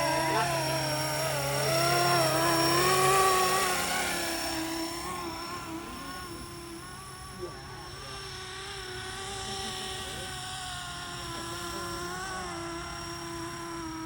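A 500-size RC helicopter in flight, its rotors and drive giving a steady hum with a high whine that wavers in pitch as the head speed and load change. It is louder for the first few seconds, then fainter.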